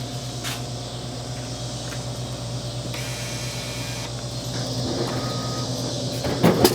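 A vehicle running steadily, heard from inside, with a low drone, getting a little louder about two-thirds of the way in. A few sharp knocks or rattles come near the end.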